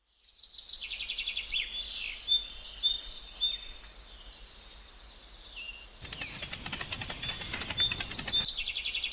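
Small birds chirping and singing in quick repeated phrases, with a fast dry rattle of clicks from about six seconds in to about eight and a half.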